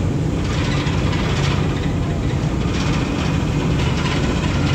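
A small ferry's engine running steadily, a low drone under a broad rushing noise.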